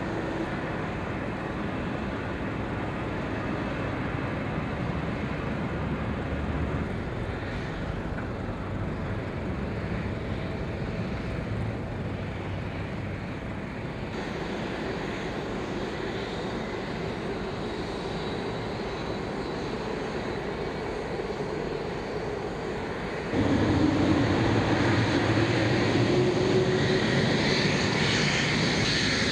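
Boeing 777 jet engines running during pushback as a steady hum with a whine. About three-quarters of the way through it gets clearly louder, with a rising whine and more high-pitched hiss, as the engines wind up.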